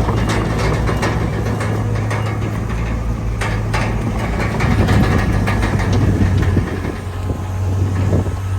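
Komatsu D31PX crawler bulldozer's diesel engine running steadily under work, with rapid, irregular clanking of its steel tracks.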